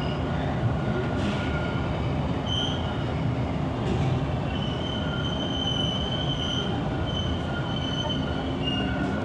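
TTC Line 2 subway train running: a steady low rumble with high-pitched wheel squeal that comes and goes, strongest around the middle.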